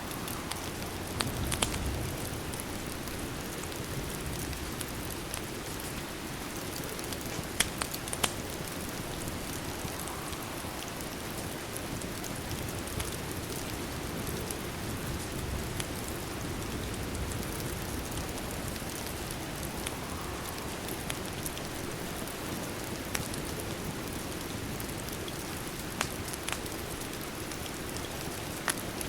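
Steady rain, a continuous even hiss, with a few sharp pops or crackles now and then: a couple about two seconds in, two around eight seconds, and two more near the end.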